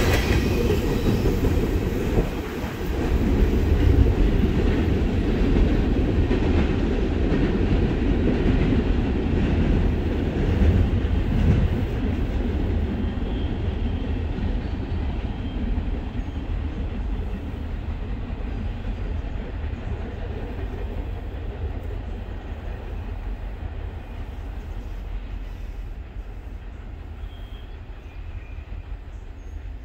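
A freight coal train's cars rolling along the track, the rumble fading steadily as the train moves away.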